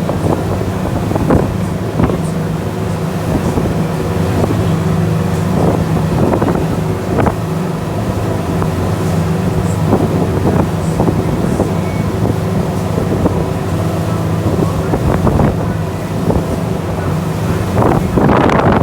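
Tour boat's engine running at a steady drone, with wind buffeting the microphone. A louder rush comes in near the end.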